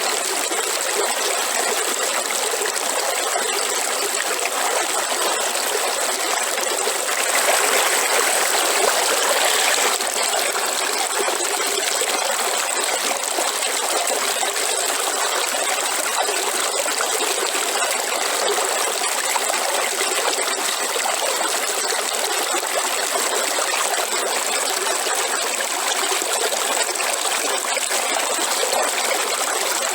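Waterfall: a steady rush of falling, splashing water, swelling slightly louder for a few seconds about a quarter of the way in.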